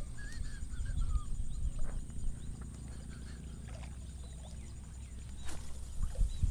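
Outdoor field ambience: a low wind rumble on the microphone with small birds chirping faintly, mostly in the first second or so, and one brief swish about five and a half seconds in.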